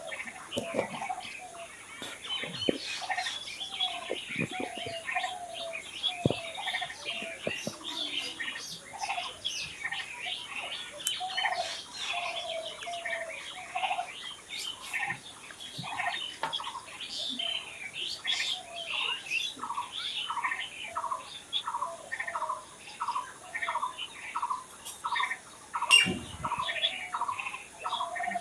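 Several wild birds singing and chirping at once, with many quick high chirps over a lower repeated warbling note. In the second half one bird repeats a short whistled note about twice a second. There is a single sharp click near the end.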